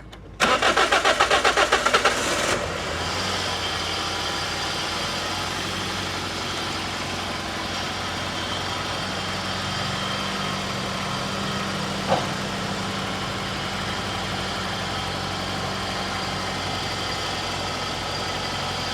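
Toyota Corolla petrol engine cranked on the starter motor for about two seconds, then catching and settling into a steady idle, just after its tappet (valve) clearances were adjusted to cure a noise and misfire. A single sharp click about twelve seconds in.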